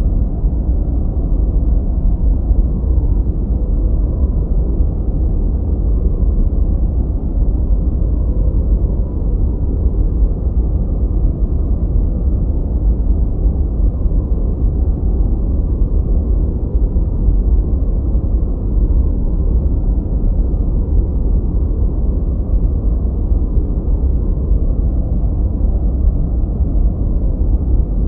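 Steady, unbroken synthetic noise for masking and focus. It is deep and rumbling, with nothing heard above the low and middle range, so it sounds closer to brown noise than true white noise.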